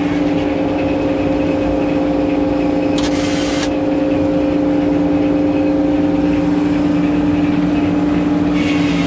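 An engine running steadily at constant speed, a level, even hum, with a brief hiss about three seconds in.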